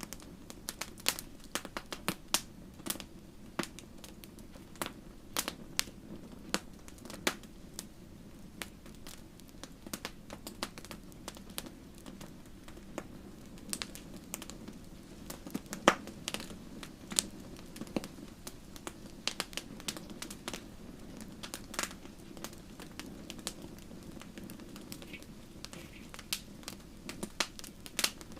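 Wood fire crackling in a fireplace: frequent sharp snaps and pops over a steady low rumble of the flames, with one especially loud pop about halfway through.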